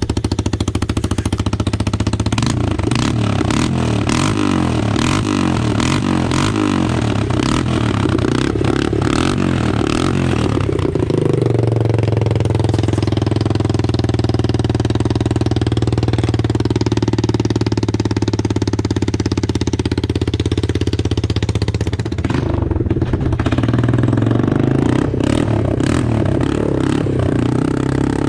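Straight-piped Yamaha Moto-4 200 ATV's single-cylinder four-stroke engine running really loud with no muffler, revved up and down with sharp pops for the first several seconds, then held at a steadier speed, dropping briefly about two-thirds of the way through before revving again.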